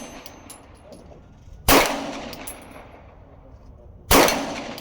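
Two handgun shots about two and a half seconds apart, each a sharp crack with a short echoing tail, followed by faint high metallic pings.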